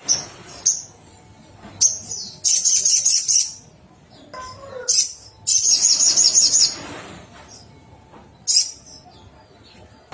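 A sogon songbird singing in a burst of high, rapid chattering trills. The bursts come again and again, the longest two lasting about a second each, with short gaps between them.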